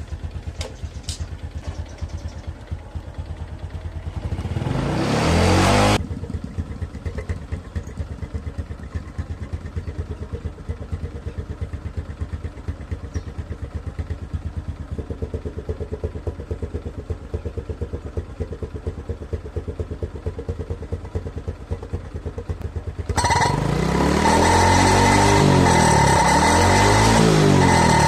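Motorcycle engine idling through its exhaust with an even, rapid putter. About four seconds in it revs up once and drops back to idle. Near the end it jumps to a louder, steady, higher-speed running.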